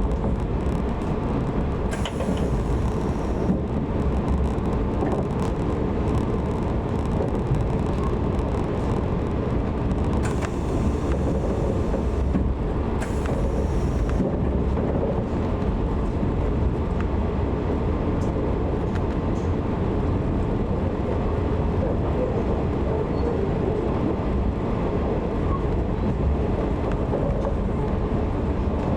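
Running noise of a 185 series electric train heard from inside the carriage: a steady low rumble of wheels on rail with scattered faint clicks. Short bursts of hiss come in about two seconds in and again twice a little before the middle.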